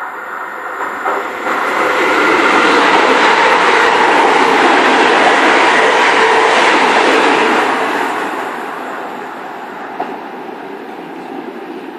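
A train passing at speed: its rumble swells over the first two seconds, stays loud for about five seconds, then fades away.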